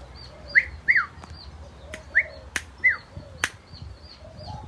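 Birds chirping: four loud, short notes that drop in pitch, over faint, steady high chirping, with two sharp clicks around the middle.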